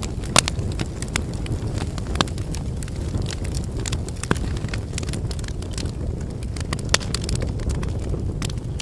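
Wood campfire burning: a steady low rumble of flames with frequent sharp crackles and pops from the burning logs, a few louder pops standing out about half a second, two seconds and seven seconds in.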